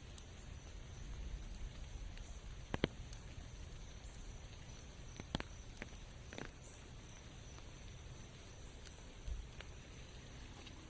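Rain in a forest: scattered drops tick sharply every second or two over a faint low rumble.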